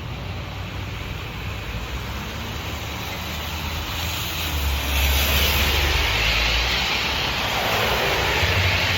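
A vehicle passing on a wet road. Tyre hiss swells from about four seconds in and drops in pitch as it goes by near the end, over a steady low rumble.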